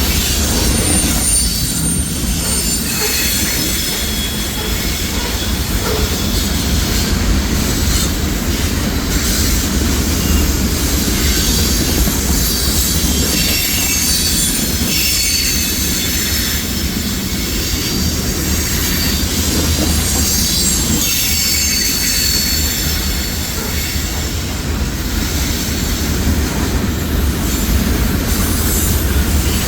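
Freight train of grain hopper cars rolling by: a steady, loud rumble of wheels on rail, with high-pitched wheel squeal that comes and goes.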